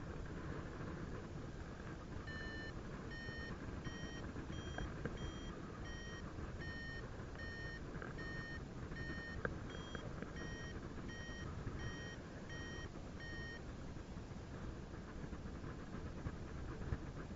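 Paragliding variometer beeping in short repeated tones, about one every 0.7 s, its pitch stepping up slightly now and then: the climb tone that signals the glider is rising in lift. The beeps stop a few seconds before the end, over a steady rush of wind noise.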